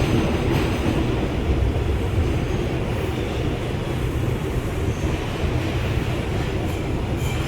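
Steady low rumble of an R142 subway car heard from inside the car.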